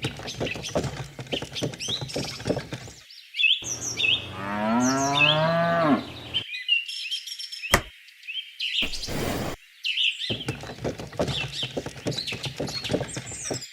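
A cow moos once, one long call of about three seconds that rises in pitch, with birds chirping all around it. A single sharp click comes about eight seconds in.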